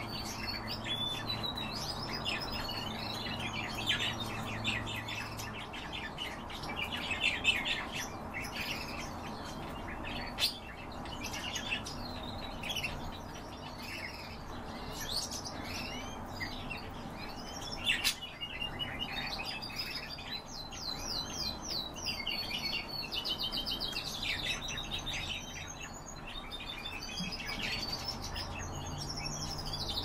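Small birds chirping and twittering: rapid runs of short, high chirps and trills, with a couple of sharp clicks about ten and eighteen seconds in.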